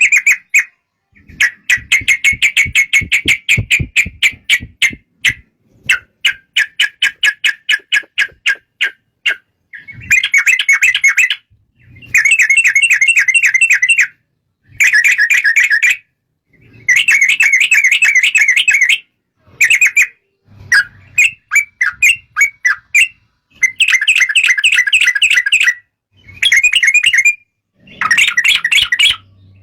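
Yellow-vented bulbul (trucukan) singing loud, rapid chattering phrases of a second or two each, separated by short pauses.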